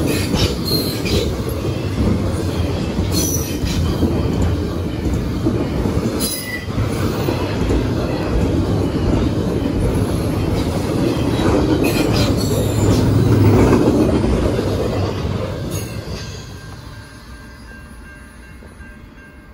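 Double-stack intermodal container cars rolling past on steel wheels: a steady rumble with a few brief high wheel squeals and clicks. The last car passes about sixteen seconds in and the rumble fades away.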